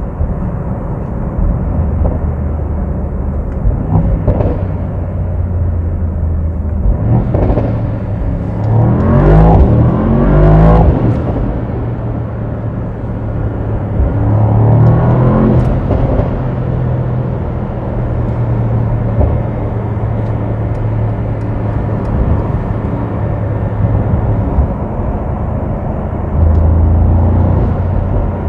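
Mercedes-AMG SL 63's twin-turbo V8 running through a tunnel, climbing hard through the revs twice, about a third of the way in and again about half way, with a steady drone between and a few sharp exhaust cracks near the first climb.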